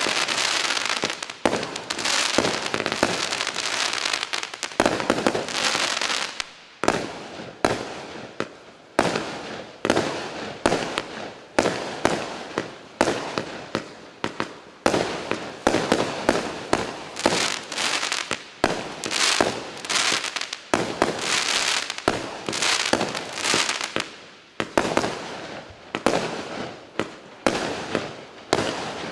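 A 192-shot consumer fireworks cake firing. For the first six seconds or so the shots come in a dense, almost continuous barrage. After that they come separately, about one to two a second, each a sharp report that trails off.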